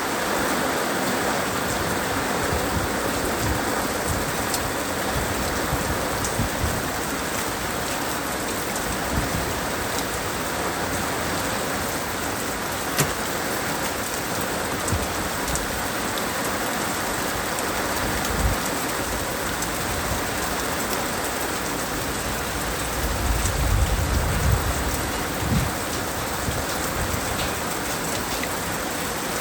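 Heavy rain falling steadily, a dense even hiss with scattered sharp drip ticks. A low rumble swells for a couple of seconds about three-quarters of the way through.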